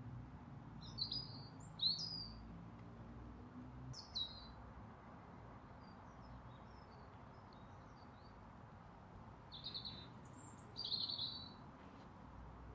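Small birds chirping in short high phrases, a handful of times, the strongest about two seconds in and near the end. A faint steady low hum runs under the first few seconds.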